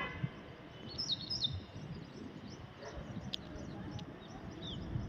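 Small birds chirping in short high calls, clustered about a second in and again near the end, over a steady background hiss.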